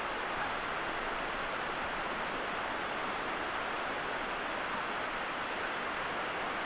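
Steady, even rushing hiss of ocean surf along the shore.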